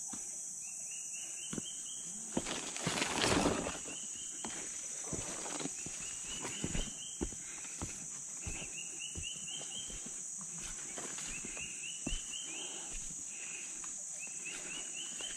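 Rainforest insects drone steadily at a high pitch, while some animal calls every couple of seconds in quick runs of short rising chirps. Footsteps and knocks come through underneath, with a louder rustle about three seconds in.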